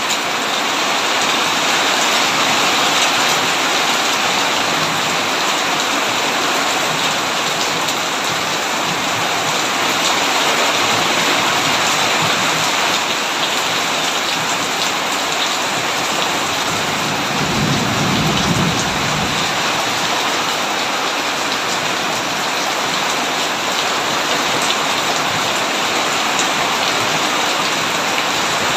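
Heavy rain pouring steadily on a tin roof. About two-thirds of the way through, a brief low rumble of thunder swells and fades.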